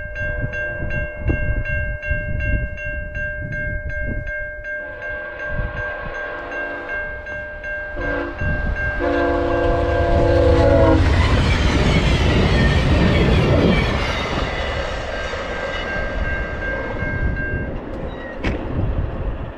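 Level-crossing warning bells ringing in a quick steady pulse as a VIA Rail passenger train approaches. Its horn sounds a long blast, a short one and another long one. The train then rushes past loudly with wheel and engine noise, and the crossing bells stop near the end.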